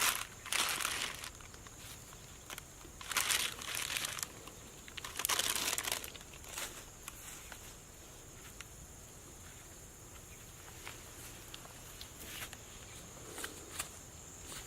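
Three bursts of crinkling, rustling noise in the first six seconds, then a few faint scattered clicks.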